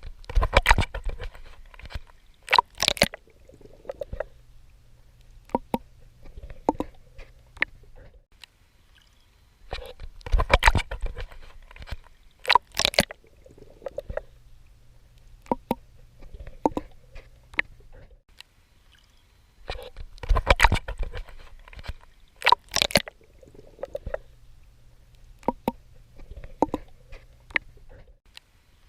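Water splashing and sloshing from swimming strokes, in a cycle that repeats about every ten seconds: a burst of several sharp splashes lasting a few seconds, then quieter scattered sloshing and gurgling with a low hum underneath.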